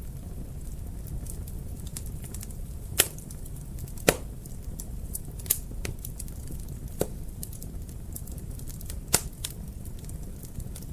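Wood fire crackling in a fireplace: a steady low rumble of flame under many small ticks, with five louder sharp pops spread through.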